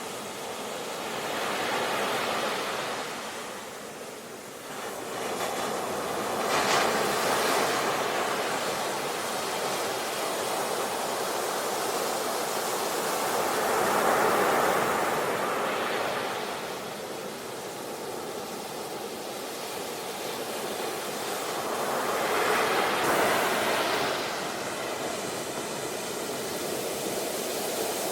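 Sea waves breaking and washing in, a rushing noise that swells and fades in four slow surges, with a sharper splash about six seconds in.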